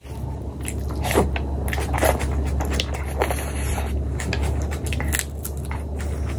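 Chewing of a mouthful of fatty pork curry and rice, with many short, irregular mouth clicks over a steady low hum.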